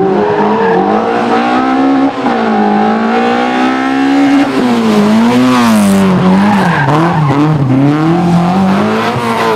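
Rally car engine at high revs, its pitch climbing and dropping with throttle and gear changes, with a sharp rise a little past the middle followed by several quick dips.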